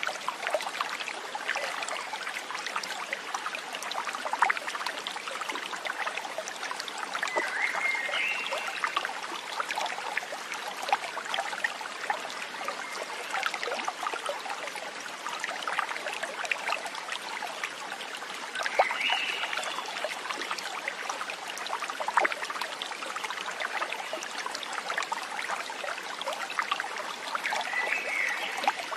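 A small stream trickling and babbling steadily, full of little splashes. A short high two-note call sounds three times, about ten seconds apart.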